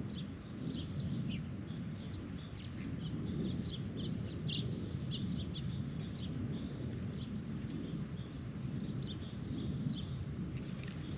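Birds chirping, many short repeated calls, over a steady low background rumble.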